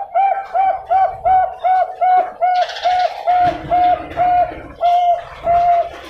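Bangkok-line perkutut (zebra dove) cooing: a fast run of short, even coos, about three a second, that slows and draws out into longer notes near the end.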